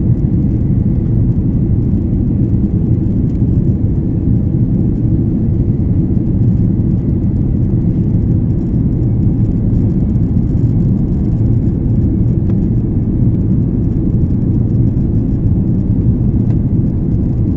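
Steady low rumble of an Airbus A330-300 in flight, heard from inside the passenger cabin: engine and airflow noise, with a faint thin whine above it.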